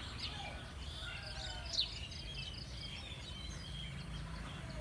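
Small birds chirping, with quick trills and one louder sharp chirp a little under two seconds in, over a steady low background rumble.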